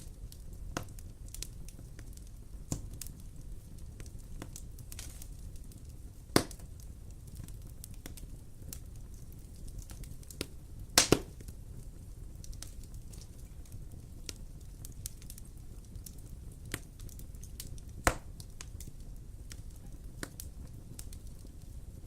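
Wood fire crackling in a fireplace: a low steady rumble of flames with scattered sharp pops, the loudest about six, eleven and eighteen seconds in.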